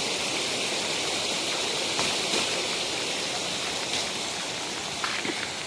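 Steady rush of rainwater runoff flowing down a street toward a storm drain, with rain falling.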